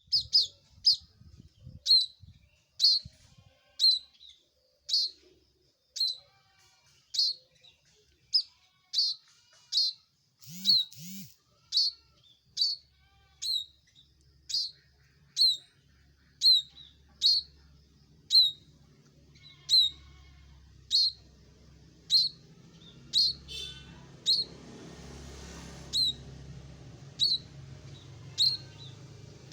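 A ciblek (bar-winged prinia) calling loudly: one short, sharp, high note repeated about once a second. A faint low hum and hiss come in during the second half.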